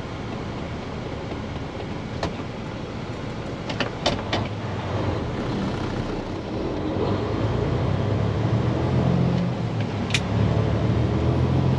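Diesel engine of a day-cab semi truck, heard from inside the cab, running steadily and getting louder from about halfway through. A few short sharp clicks come along the way.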